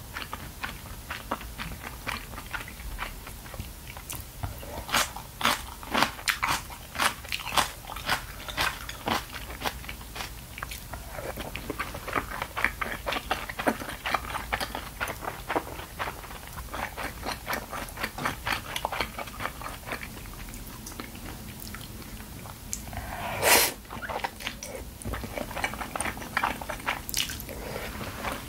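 Close-miked chewing of fish cake and udon noodles: a steady run of wet mouth clicks and smacks, with one louder, longer burst of mouth noise about three-quarters of the way through.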